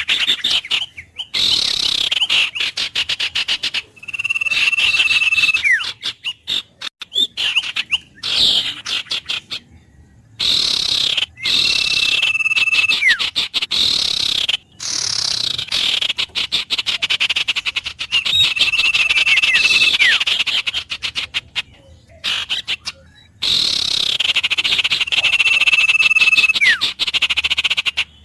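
Wild bird song repeating the same phrase about every seven seconds: a run of quick, rapidly repeated sweeping notes, then a long steady whistle that ends in a quick falling note.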